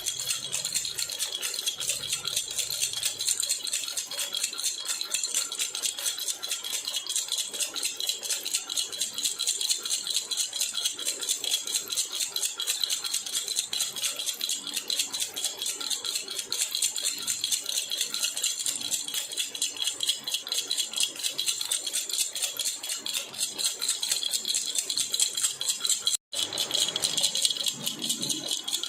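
Metal jhunjhuna baby rattle shaken continuously, a rapid, even jingling clatter. The jingling breaks off for a split second near the end, then resumes.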